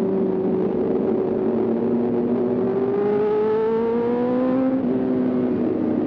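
Sport motorcycle engine running on the move. Its revs climb from about three seconds in, then drop back just before five seconds and hold steady.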